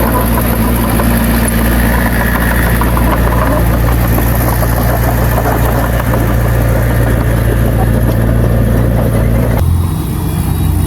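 Heavy-equipment diesel engine running steadily under a dense mechanical clatter. Near the end the sound changes suddenly, the higher noise dropping away and leaving a lower engine note.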